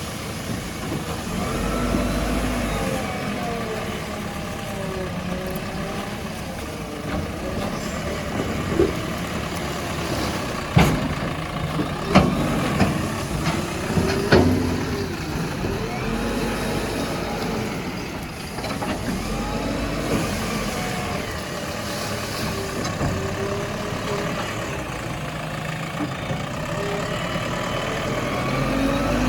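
JCB backhoe loader's diesel engine running and revving up and down as it works the front bucket, with a few sharp knocks around the middle.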